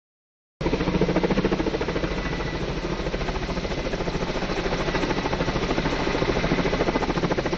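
An engine running steadily with a fast, even pulse, cutting in abruptly about half a second in after a moment of dead silence.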